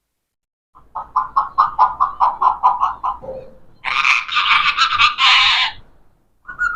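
Pet parrot calling: a quick run of about ten short clipped notes, then a two-second raspy screech, and a pitched whistle-like call starting near the end.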